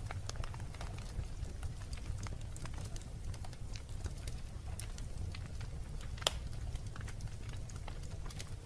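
Wood fire crackling in a fireplace: scattered sharp pops and snaps over a steady low rumble, with one louder pop a little after six seconds in.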